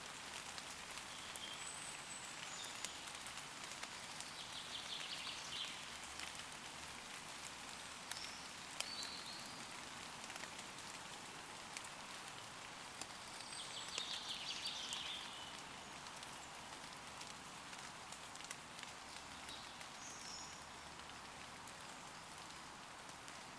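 Steady rain falling on leaves, with individual drops ticking. Small birds twitter briefly twice, about five and fourteen seconds in, with a few scattered high chirps between.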